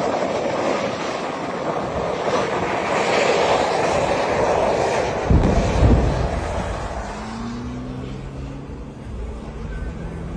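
Loud, steady roar like a jet engine, typical of an LP gas tanker's leaking gas burning, that eases off after about five seconds, with heavy low rumbling thuds about halfway through.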